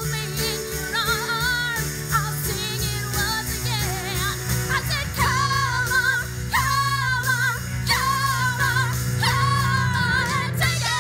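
A woman singing a 1960s pop song with band accompaniment, holding long notes with vibrato.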